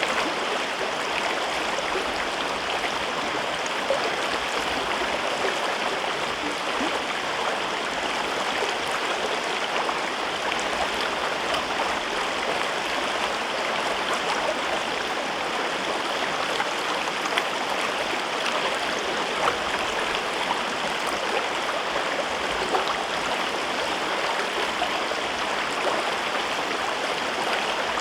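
A mountain river running over rocks in a gorge: steady rushing and babbling water with small splashes throughout.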